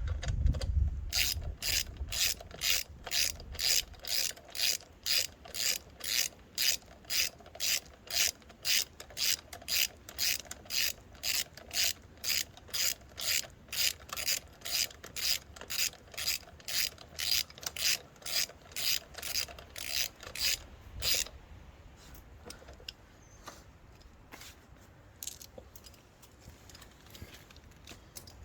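Ratchet wrench clicking in steady strokes, about two a second, as bolts and nuts are run down; the ratcheting stops about three-quarters of the way through, leaving a few faint ticks.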